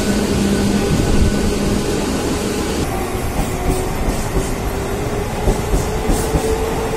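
Mumbai suburban electric local train running between stations: loud wheel-on-rail noise with a steady motor hum, and a few clicks over rail joints near the end.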